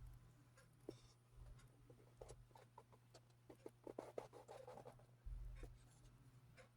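Faint scratching and small clicks over a low steady hum, with a dense run of them about four seconds in.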